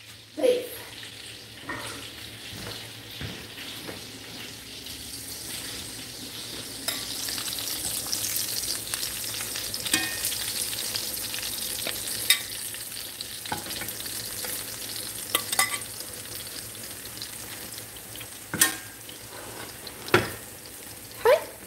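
Hamburger steaks and onion rings sizzling in hot grease in cast-iron skillets, with a steady hiss that grows louder about seven seconds in. A metal spatula scrapes and clicks against the pan now and then as the patties are lifted out.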